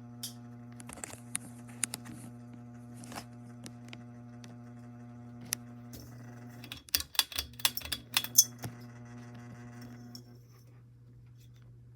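Aloha Breeze ceiling fan's motor running with a steady electrical hum, a loud fan. Scattered sharp clicks sound over it, then a burst of rapid clicking and rattling from about seven to eight and a half seconds in. Near the end the hum goes thinner and quieter.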